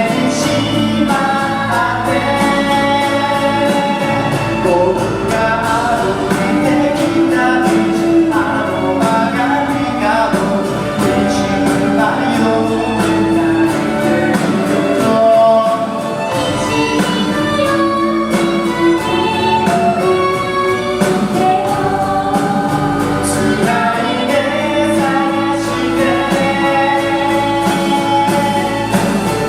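Live pop-rock band playing a song with sung vocals over the instruments.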